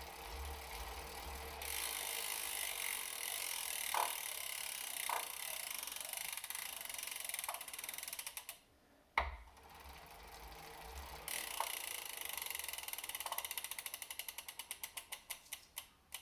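Elite Suito-T trainer's freehub ratcheting as the drivetrain freewheels, in two runs, each begun with a short low rumble of pedalling; the clicks of the second run slow and fade as it spins down. A few separate knocks sound among the clicks, the knocking that the owner suspects comes from the freehub.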